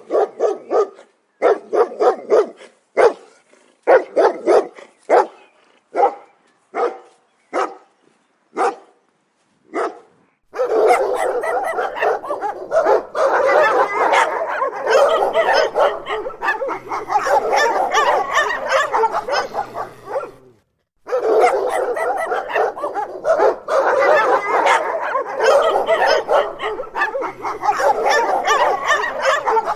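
Dogs barking angrily. For about the first ten seconds there are separate barks, one or two a second, thinning out. Then a dense, continuous barrage of overlapping barks from several dogs begins; it breaks off briefly about two-thirds of the way in and resumes.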